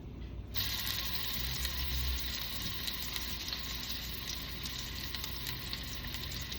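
Beef meatballs frying in hot oil in a skillet: a steady sizzle with fine crackling that starts suddenly about half a second in.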